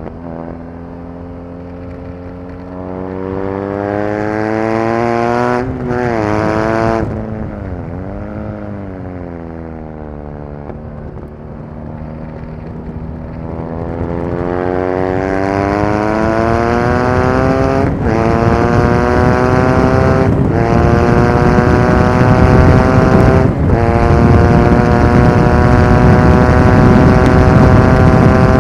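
2018 BMW R nineT Racer's boxer twin engine at racing pace. The revs climb, with a gear change about six seconds in. The throttle then shuts and there is a short blip of revs during a downshift. The engine pulls low and steady for a few seconds before revving up again through three quick upshifts, growing louder toward the end.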